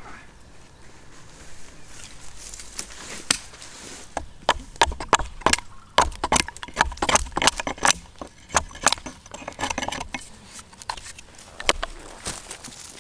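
A run of sharp, irregular clicks and knocks, coming thickest and loudest in the middle.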